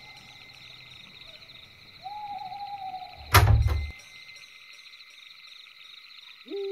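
An owl hooting once, a long slightly falling call about two seconds in, over a steady high-pitched hum. A little later comes a loud, heavy thud from the plank-wood door being pushed or struck, and near the end a short falling two-note sound.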